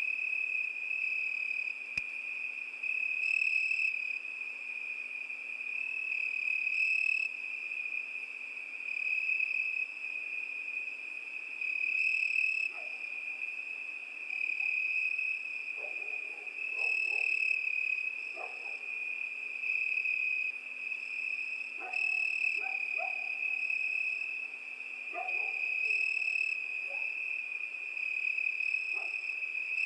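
Crickets chirping in one continuous high-pitched trill that swells and eases every few seconds. Fainter short calls from other night animals come in from about halfway through.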